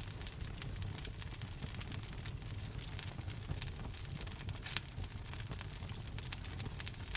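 Wood fire crackling: a dense run of small pops and snaps over a steady low rumble, with one louder pop nearly five seconds in.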